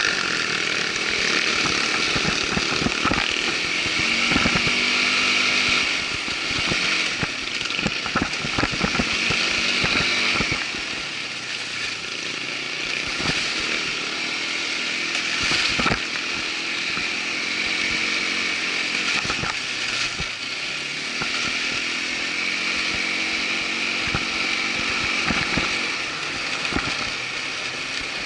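Irbis ATV 200 quad bike engine running as it rides along a rough trail, its pitch rising and falling with the throttle, with frequent short knocks and rattles throughout.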